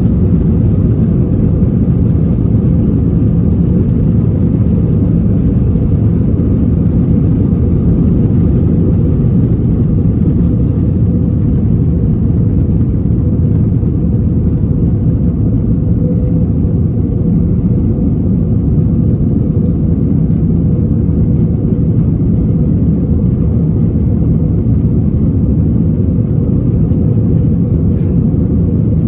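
Steady low drone of engine and air noise heard inside an Airbus A321 airliner's passenger cabin, unchanging throughout.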